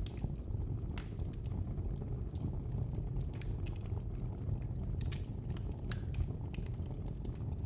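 Wood fire in a fireplace crackling: irregular sharp snaps and pops, several a second, over a steady low rumble of burning.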